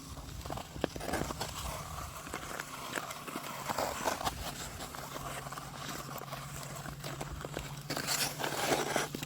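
Irregular sharp clicks and knocks on lake ice, over a steady low hum.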